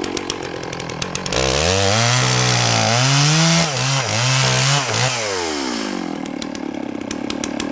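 Chainsaw idling, then throttled up about a second in and run at full speed through a cut in an oak log, its pitch dipping a few times as the chain loads in the wood, before it winds back down to idle.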